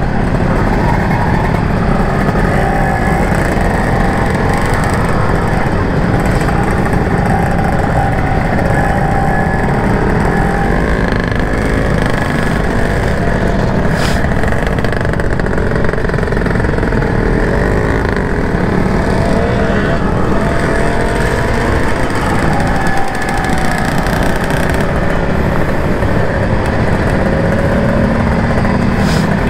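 Motorcycle engines running in slow, stop-and-go city traffic, a steady low rumble whose pitch wavers slightly as the throttle changes. A short click comes about halfway through.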